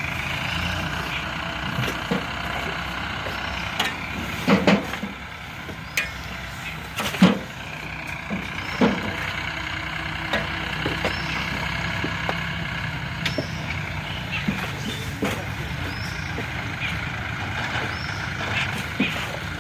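Diesel tractor engine running steadily, with several sharp knocks and clanks, the loudest about a third of the way in.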